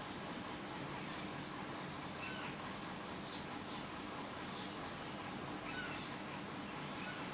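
Short bird chirps here and there over a steady background hiss, with a high-pitched pulsing at about three pulses a second.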